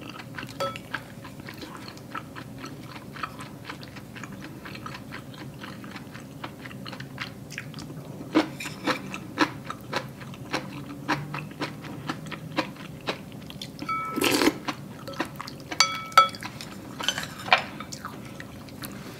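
A person chewing mouthfuls of tteokguk, Korean rice cake soup, with rice cakes and tofu: many small wet clicks and smacks, a few louder ones now and then, and one louder burst about fourteen seconds in.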